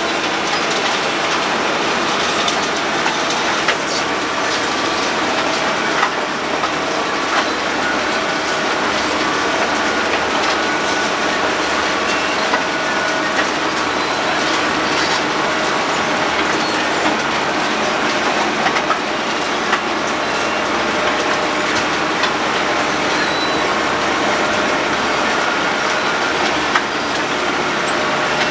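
Road planer milling off the asphalt road surface: a steady, loud grinding clatter from the cutting drum and engine, with a faint whine and occasional sharp clicks.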